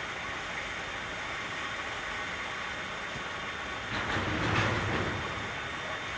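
Steady road and engine noise of a container truck on the move. About four seconds in, a louder rushing sound swells and fades over a second or so, like another vehicle passing close by.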